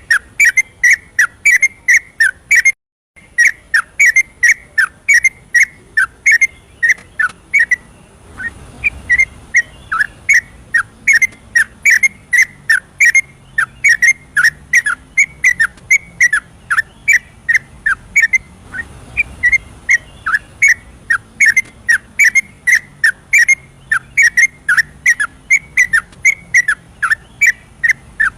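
Yellow-vented bulbul (trucukan) singing a long, fast run of short whistled notes, about three a second, with a brief break about three seconds in.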